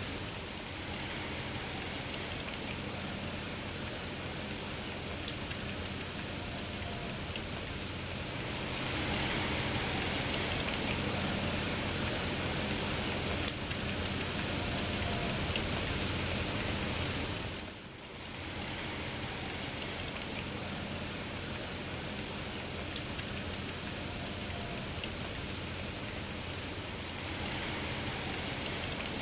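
Steady rainfall, an even hiss with a few sharp single drops ticking close by. The rain swells in the middle and fades for a moment about two-thirds through.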